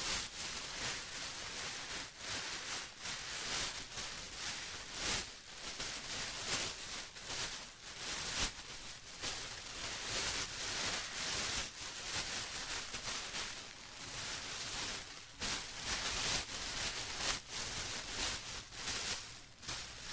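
Plastic rustling and crinkling continuously in irregular handled bursts, crisp and hissy, with no steady rhythm.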